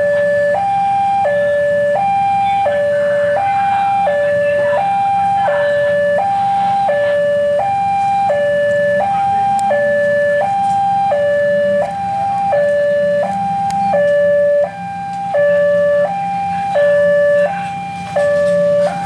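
Railway level crossing warning alarm sounding a steady two-tone high-low signal, each tone held about half a second, over a low rumble of waiting traffic; the signal warns that a train is approaching.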